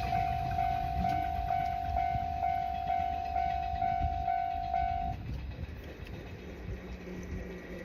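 A freight train's rumble fading as it moves away, with a level-crossing warning bell ringing one steady pitch in even pulses, about two a second, that stop about five seconds in.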